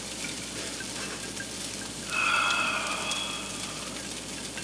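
Pieces of pizza frying in a pan on the stove, a steady sizzling hiss. About two seconds in, a brief higher-pitched sound rises over it for about a second.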